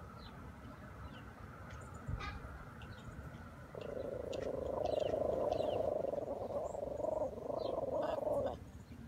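Small dog growling in a steady, rough rumble for about five seconds, starting about four seconds in.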